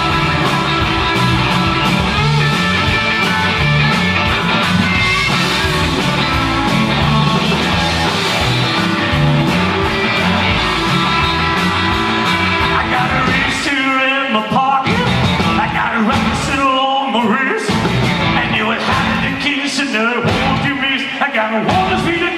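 Live rock and roll band playing with guitar and singing. About two-thirds of the way through, the bass and drums break off into short stops while the vocal carries on.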